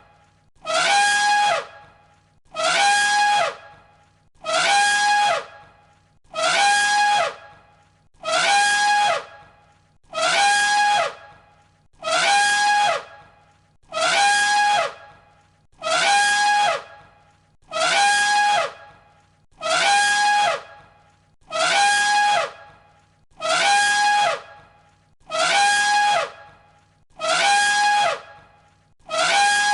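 Elephant trumpeting: the same short, brassy call of about a second repeats as a loop, roughly every two seconds, each one exactly like the last.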